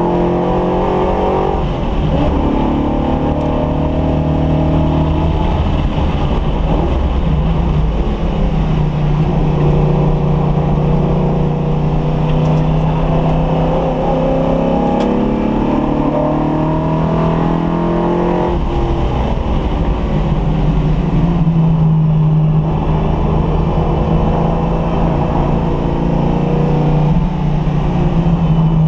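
Car engine pulling hard through the gears, its pitch climbing with the revs and dropping back at gear changes about two seconds in and again about eighteen seconds in; a freshly rebuilt engine being run in on track.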